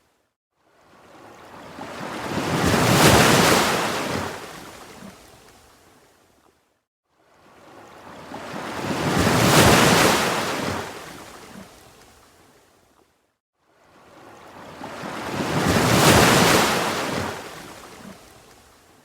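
Ocean waves washing in and drawing back, three even swells about six and a half seconds apart. Each builds to a loud peak and fades to a brief near-silence before the next.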